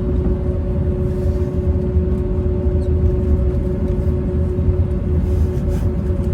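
Airbus A320 passenger-cabin noise after landing: a steady deep rumble with two steady hum tones above it.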